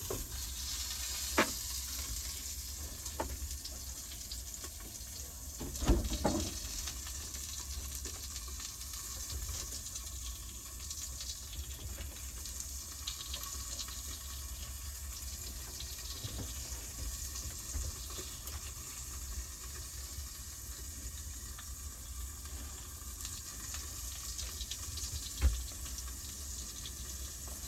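Cheese smokies sizzling in a frying pan, a steady hiss, with a few short knocks of a utensil or the pan, the loudest about six seconds in and again near the end.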